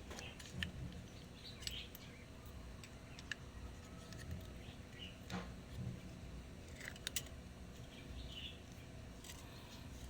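Scattered light clicks and taps of small metal parts and tools being handled while a motorcycle carburetor is reassembled, with a few short bird chirps.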